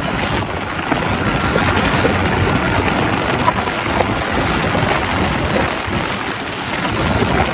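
Suzuki GSX-R sportbike engine running hard under acceleration, mixed with heavy wind rush over the microphone.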